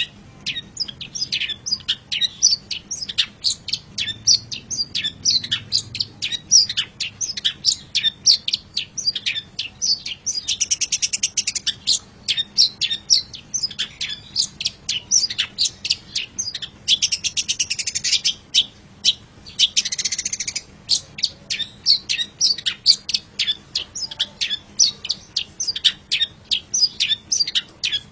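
Long-tailed shrike (cendet) song: a fast, continuous run of short, sharp chirps. A few harsh, buzzy rattles come in the middle.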